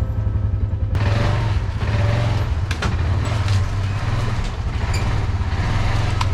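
A motor vehicle running: a steady low engine rumble under an even road or wind noise, with a few faint knocks.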